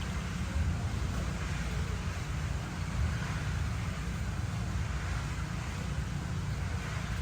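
Steady low rumble with a fainter hiss above it and no distinct events: outdoor background noise of the kind made by wind on the microphone or distant road traffic.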